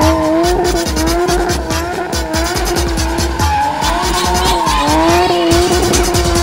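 A drifting car's engine revving up and down, with tyre squeal, mixed with music that has a steady beat.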